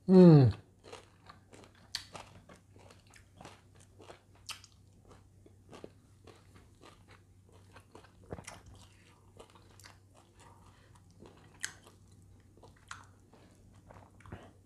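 Close-miked chewing and crunching of a mouthful of food, with small irregular crackly bites. It opens with a short, loud 'mmm' of enjoyment that falls in pitch.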